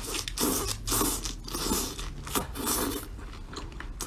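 A person chewing a mouthful of sauced skewered food close to the microphone, in bursts about two a second, growing quieter about three seconds in.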